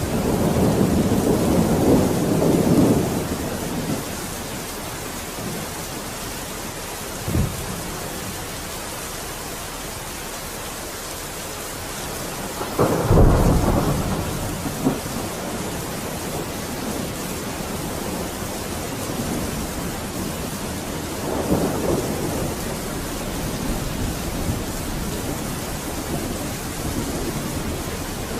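Steady rain falling in a thunderstorm, with rolling thunder. The thunder rumbles at the start, gives a short low thud about a quarter of the way in, and cracks loudest just before halfway, rolling off over a few seconds. A fainter rumble follows later.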